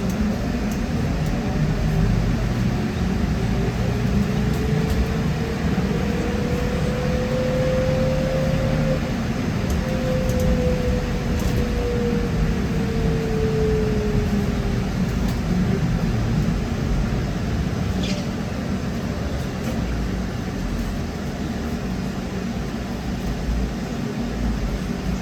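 Trolleybus ride noise: a steady rumble with the electric traction drive's whine rising in pitch as the trolleybus picks up speed, then sliding back down as it slows, fading out a little past the middle.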